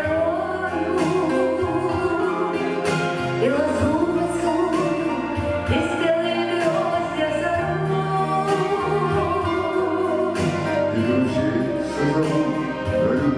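A song performed live: a voice singing a slow melody over sustained instrumental accompaniment.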